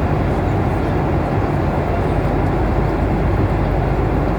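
Steady roar of engines and rushing air heard inside the cabin of a Boeing airliner, even and unbroken, heaviest in the low rumble.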